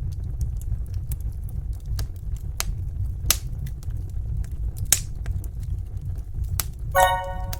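Wood fire crackling, with sharp pops every second or so over a steady low rumble. Near the end a pitched musical tone begins.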